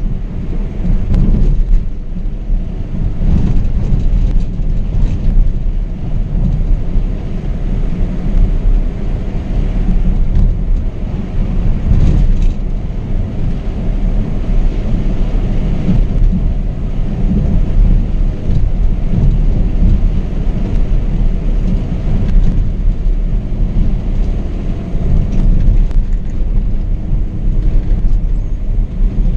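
Scania K420 double-decker coach on the move at road speed: a steady, loud low rumble of road, wind and driveline noise, with small rattles now and then.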